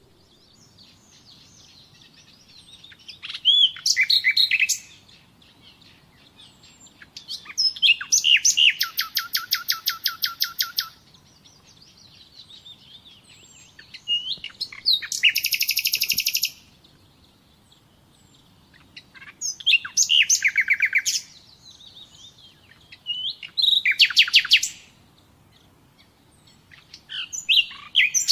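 A songbird singing, with about six phrases a few seconds apart. Each phrase opens with a few short notes and ends in a fast, even trill of repeated notes. Fainter chirps from other birds fill the pauses.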